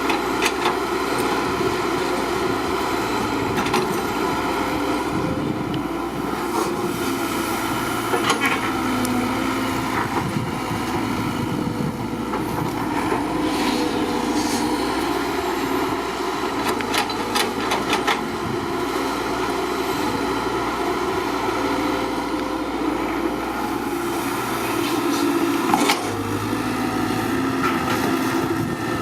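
Small electric motors and gearboxes of toy dump trucks and a toy excavator running steadily with a whine, broken by scattered sharp clicks and knocks.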